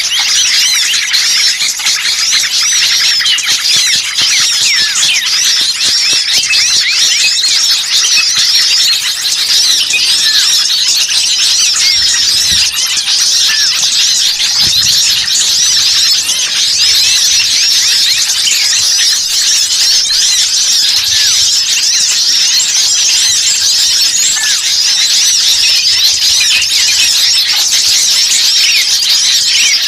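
A dense chorus of many small songbirds chirping and chattering rapidly and without pause, all high-pitched, overlapping calls. It is a bird-lure recording of 'noisy small birds', used to draw wild birds in.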